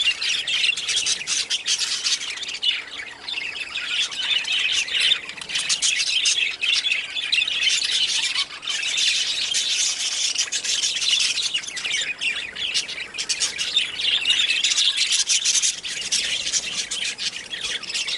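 A flock of budgerigars chattering and squawking together in a continuous dense twitter of short calls.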